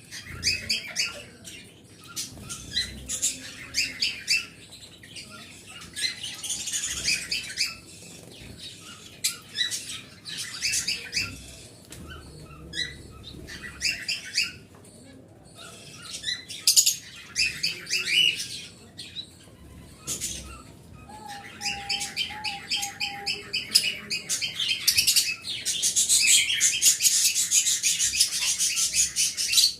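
Small cage birds chirping and chattering in many short, high calls that overlap and grow denser and louder over the last several seconds.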